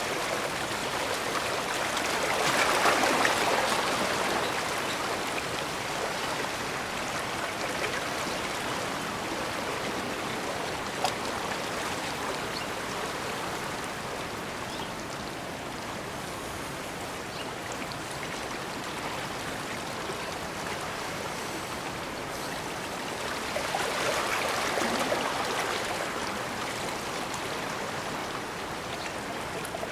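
Bay water washing against the shore, a steady rush with two louder swells as waves come in: one a few seconds in and another about three quarters of the way through.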